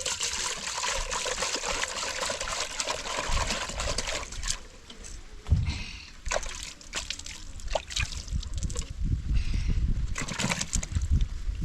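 Water splashing and sloshing, steady for the first few seconds and then in broken spells, with a few sharp clicks.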